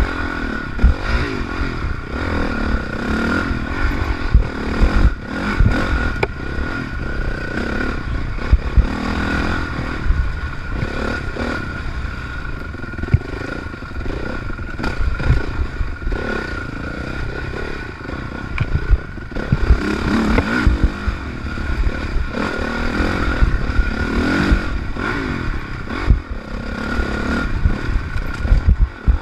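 Honda CRF450R dirt bike's single-cylinder four-stroke engine revving up and down under hard riding, heard from an onboard camera, with repeated knocks and rattles from the bike over rough ground.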